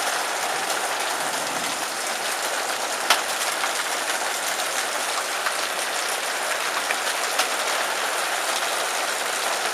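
Heavy rain pouring steadily, heard from under a metal porch roof, with a few sharp ticks standing out from the hiss.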